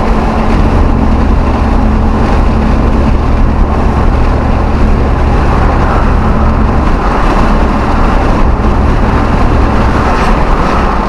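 V8 Hemi pickup truck engine running steadily while driving, with road noise.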